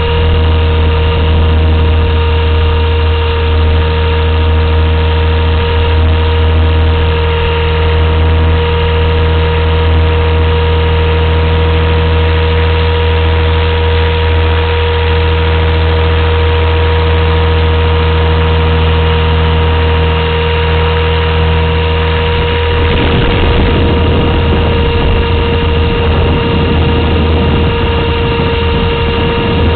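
Blade 230S V2 electric RC helicopter's motor and rotors running steadily, heard through a camera mounted on the helicopter: a steady whine over a loud low rotor drone. About 23 seconds in, the low part turns rougher and noisier.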